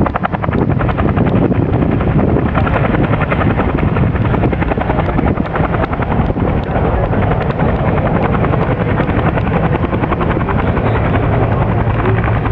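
Airbus A380 jet engines running loud and steady in flight, a continuous rushing roar with a fast, fluttering pulse in it.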